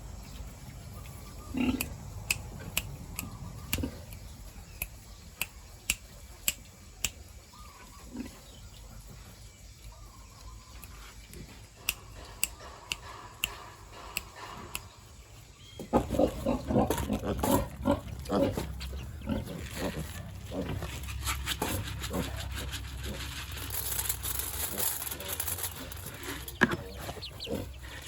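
Pigs grunting, dense and busy from about halfway through, mixed with clicks. Before that there are scattered single sharp clicks over a quiet background.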